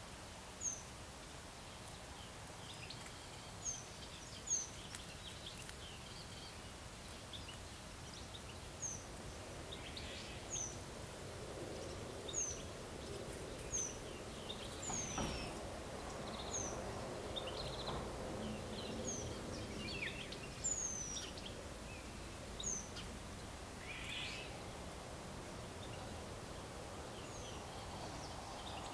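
A small bird giving short, high, falling chirps every second or two, with fainter scattered twittering, over a steady background hum of environmental noise.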